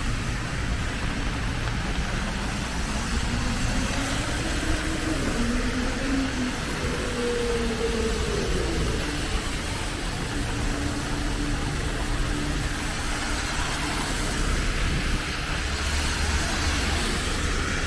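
Road traffic: a motor vehicle's engine rising in pitch as it speeds up, then holding a steady note, over a steady low rumble and hiss.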